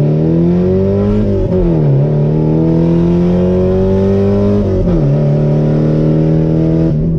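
Loud, straight-piped 1989 Porsche 944 four-cylinder engine accelerating hard through the gears. Its pitch climbs, dips sharply at two upshifts about a second and a half and five seconds in, and falls away near the end as the throttle comes off.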